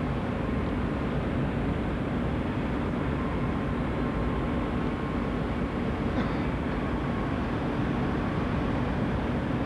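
Steady wind noise buffeting the camcorder microphone on the open deck of a moving cross-channel ferry, over the low, even rumble of the ship under way.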